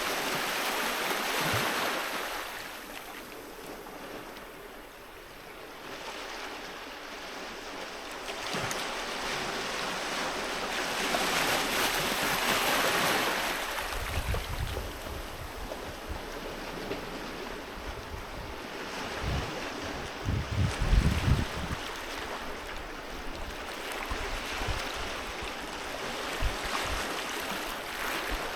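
Sea waves breaking and washing up the beach, the surf swelling and easing over several seconds. Short low thumps of wind buffeting the microphone come in near the middle and again about two-thirds of the way through.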